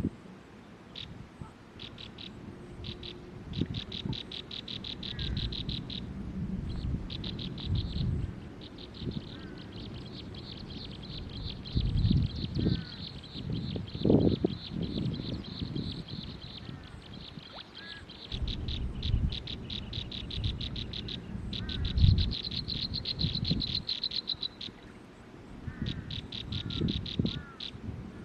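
Animal calls: rapid, high-pitched pulsed trills that come in runs of several seconds, with a few short chirps between them. Low rumbles come and go underneath.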